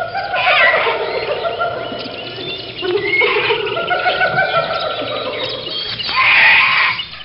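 A flock of birds calling all at once, many overlapping squawks and chirps in a dense, continuous chorus.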